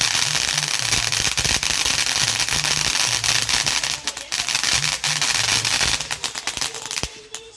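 Fireworks crackling in a dense, rapid stream of sharp pops, thinning to scattered cracks after about four seconds and dying out near the end.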